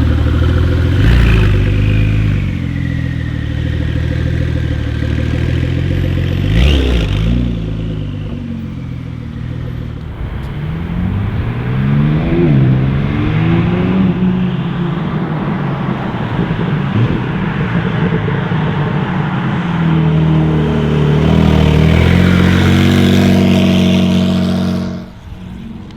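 Porsche 992 Carrera S twin-turbo flat-six revving and accelerating, its note climbing several times, with two sharp cracks in the first seven seconds. Near the end it holds a steady note, then drops away sharply about a second before the end.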